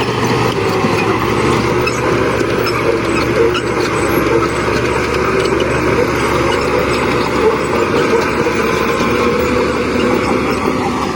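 Heavy construction machinery with diesel engines, running steadily without pause.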